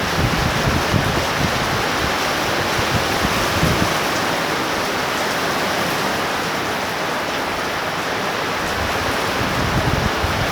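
Torrential rain pouring down in a steady hiss, with wind gusts buffeting the microphone at the start and again near the end.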